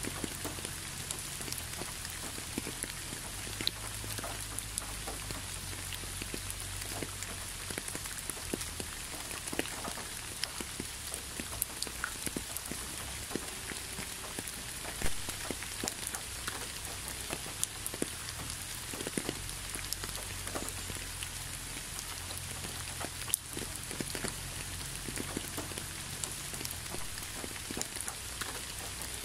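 Gentle rain falling onto leaves and a road: a steady hiss dotted with many scattered drip taps, one louder tap about halfway through.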